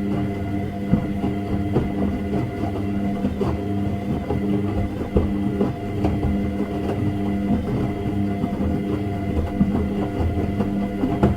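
Washing machine running: a steady motor hum with a thin high tone above it, and a stream of small irregular knocks and clatter.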